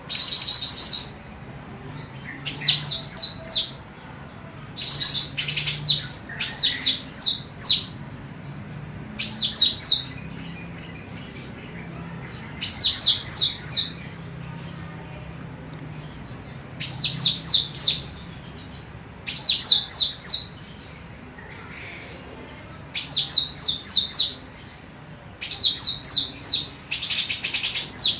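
Female cucak rante emas calling: repeated short bursts of three to five quick, high, downward-sliding notes, a new burst every two to three seconds.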